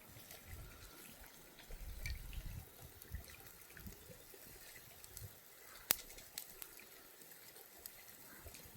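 Faint trickling and dripping water with scattered small ticks, and one sharp click about six seconds in.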